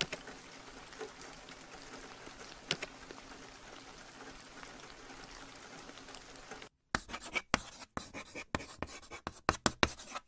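Steady rain ambience with a few faint clicks, cutting off suddenly about seven seconds in. Then a quick run of sharp scratching strokes follows: a chalk-sketching sound effect.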